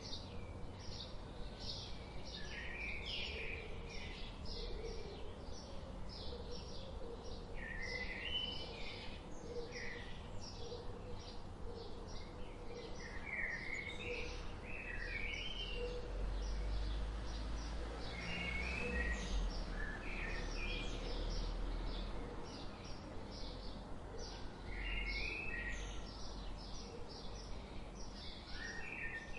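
Songbirds chirping: a steady stream of short, high chirps with repeated stepped phrases, over a continuous low rumble that grows louder about halfway through.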